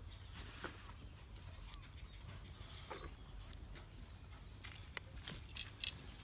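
Wood campfire crackling faintly, with scattered sharp pops that come a little louder and closer together near the end.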